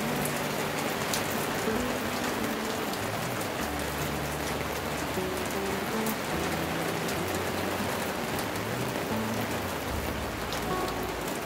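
Steady rain falling and pattering on a balcony ledge, with a few sharper ticks of single drops. Soft background music with a slow melody plays underneath.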